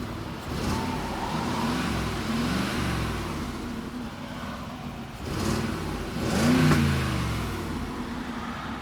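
Mercedes-Benz G-Class exhaust with the engine in sport mode, a deep idle revved twice: a longer rise and fall about a second in, then a sharper blip near the end.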